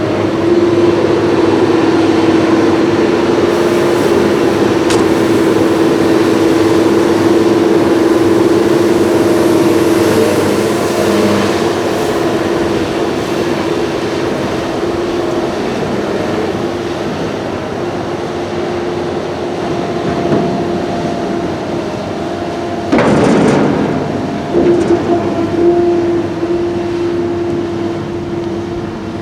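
Heavy machinery running steadily with a constant droning hum, with a brief louder rush of noise about three-quarters of the way through.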